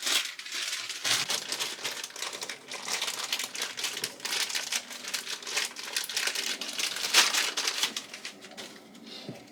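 Continuous crinkling and rustling of something being handled, made of dense, irregular small crackles, which die away near the end.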